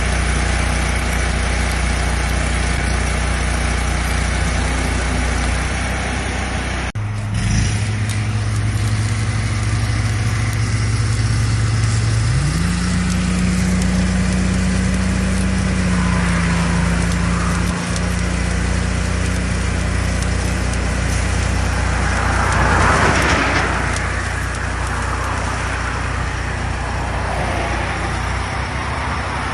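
Engine running steadily, with a low hum that steps up in pitch about halfway through. Near the end a vehicle passes by.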